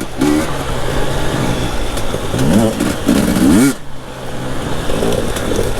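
Enduro dirt bike engine under hard riding, revving up with rising pitch, dropping off suddenly when the throttle is cut about four seconds in, then picking up again.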